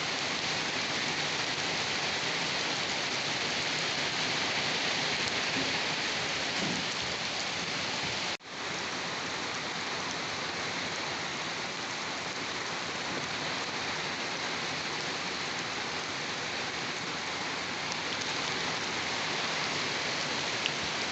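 Steady, dense rainfall hissing on a surface. About eight seconds in, the sound cuts out for a split second and comes straight back.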